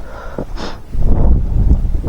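Strong wind buffeting the microphone with a heavy low rumble. It eases for a moment, then gusts hard again about a second in, with a brief hiss partway through the lull.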